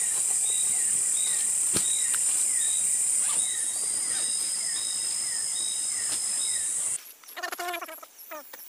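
Forest insects buzzing steadily at a high pitch, with a short chirping call repeating about every 0.6 s. About seven seconds in this stops abruptly and a bird's quick, rapid calls take over.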